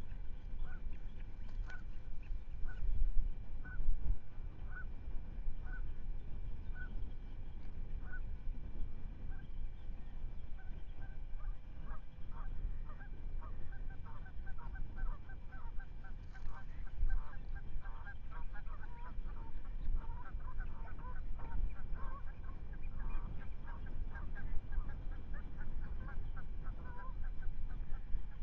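Ospreys calling: short whistled calls about once a second, quickening about ten seconds in into a rapid run of chattering calls. A low wind rumble on the microphone runs underneath.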